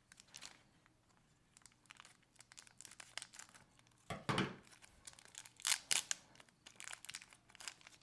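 Packaging being opened by hand: crinkling and tearing in scattered bursts, loudest about four seconds in and again near six seconds.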